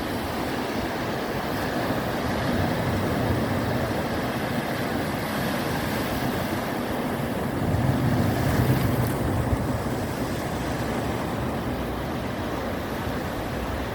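Ocean surf washing in steadily, with a wave breaking louder about eight seconds in, and wind buffeting the microphone.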